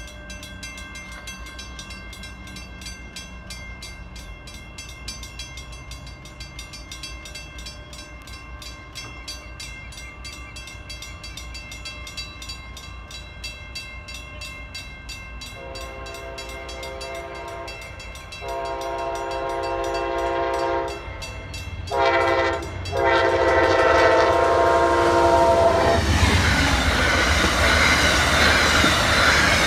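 Railroad crossing bell ringing steadily while an approaching Amtrak train sounds its horn in the grade-crossing pattern: two long blasts, a short one, and a long one. Near the end the train arrives and its passenger cars rush past with loud wheel and rail noise.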